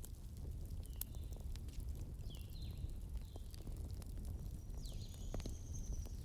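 Campfire burning with a steady low rumble and scattered crackles, a few sharper pops among them. Short high chirps recur over it several times, with a longer thin high tone near the end.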